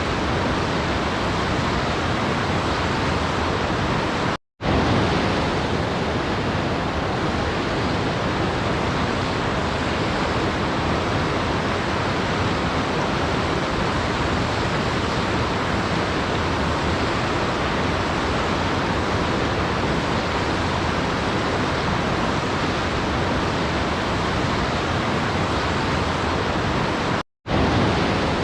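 Steady, even rush of a waterfall with no distinct splashes. It cuts to silence for an instant twice, about four seconds in and again near the end.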